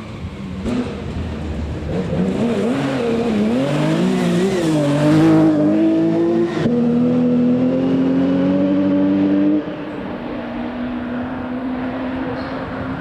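Rally car engine revving hard, its pitch rising and falling with the throttle, then a sudden gear change about six and a half seconds in and a steady climbing pull that turns quieter about ten seconds in as the car moves away.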